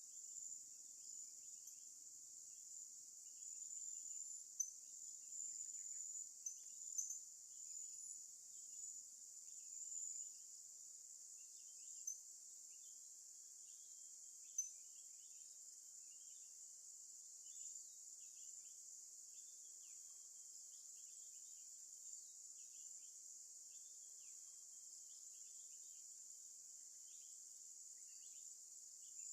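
Faint, steady high-pitched insect chorus of crickets or cicadas, with short chirps scattered through it and a few sharp ticks.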